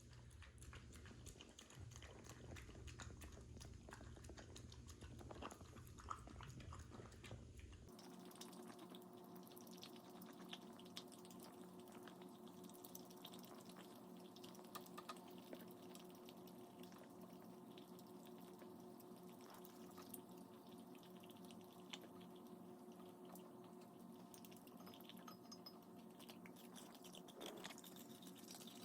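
Near silence: quiet indoor room tone with a faint steady hum and scattered small ticks and clicks.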